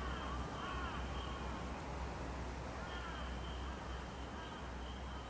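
Bird calling outdoors: a run of short, arching calls, then another run about three seconds in, over a low rumble and a faint, steady high tone that comes and goes.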